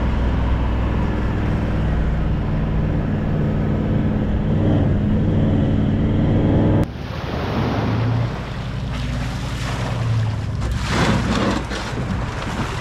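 A four-wheel drive's engine runs steadily as the vehicle drives along a sandy beach. About seven seconds in, the sound changes abruptly to wind buffeting the microphone and water at the shoreline as a small aluminium boat is pushed off its trailer.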